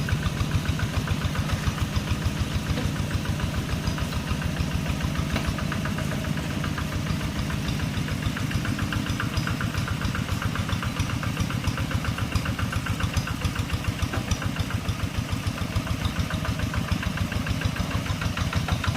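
Tractor engine running steadily with an even, regular pulse.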